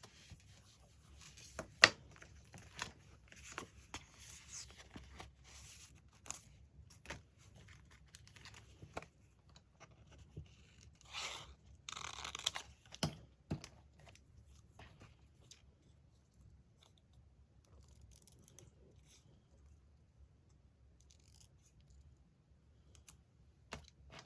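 Paper being torn and handled, with scattered sharp clicks and taps, a loud click about two seconds in, and a longer stretch of tearing and rustling about halfway through.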